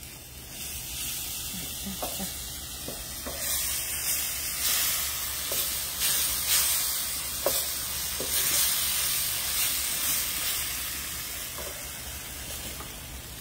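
Green seasoning of blended celery, culantro and thyme sizzling as it fries in oil in a metal pan over a wood fire, stirred with a wooden spoon that scrapes the pan now and then. The sizzle swells a few seconds in and eases toward the end.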